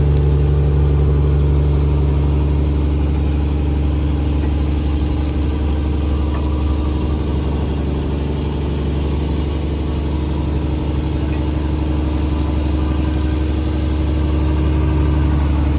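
A fishing trawler's diesel engine running steadily, a deep, even drone with a faint high whine over it.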